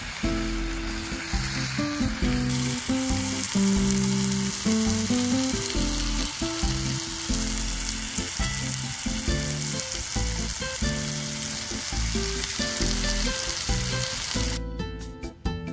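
Chicken frying in a Turk iron frying pan, with a steady sizzle over low background music. The sizzle stops shortly before the end, leaving only the music.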